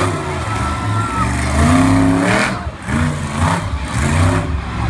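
Monster truck engine running with a deep, steady rumble and some rises in pitch, with a voice heard over it.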